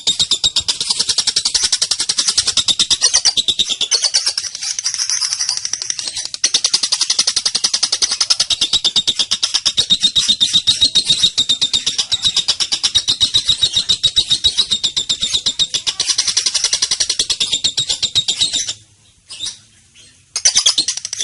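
Young female lovebird giving a long 'ngekek' chatter: a fast, unbroken stream of shrill repeated chirps that runs for about 18 seconds. It then breaks off into a few short separate calls near the end.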